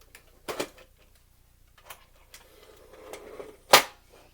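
Clicks and knocks from a Blu-ray player's parts being pulled up by hand: two sharp clicks about half a second in, a few light ticks, a short rustle, then one loud sharp snap near the end.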